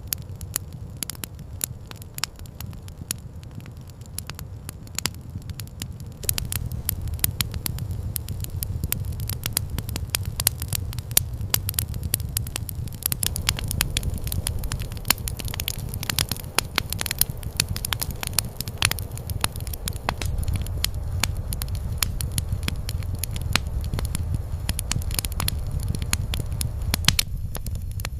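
Campfire crackling: frequent sharp pops and snaps over a steady low rumble, growing louder and busier about six seconds in.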